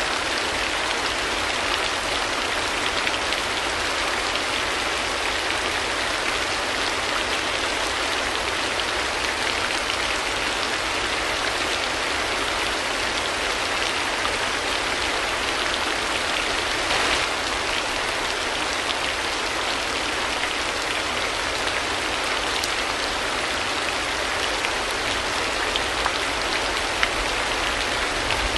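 Steady rain falling, an even hiss with many small drop ticks, a little louder for a moment partway through.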